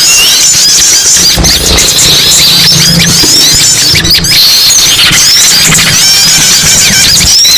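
A dense, loud chorus of many small songbirds chirping and twittering at once, their short high calls overlapping without a break.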